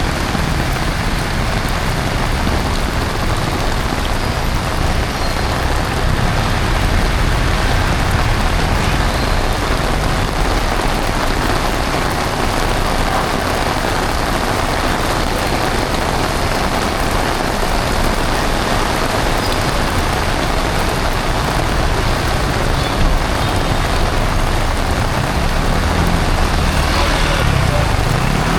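Heavy rain falling steadily, mixed with the rumble of road traffic.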